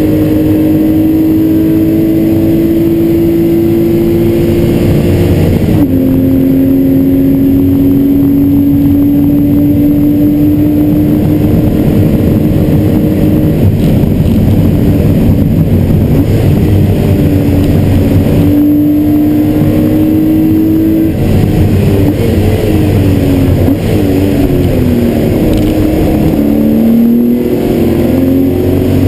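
Porsche 993 Carrera 4's air-cooled flat-six heard from inside the cabin, pulling hard under full throttle. The engine note climbs in long rises, drops sharply as it shifts up about six seconds in, and in the second half falls and rises repeatedly with throttle lifts and gear changes through corners.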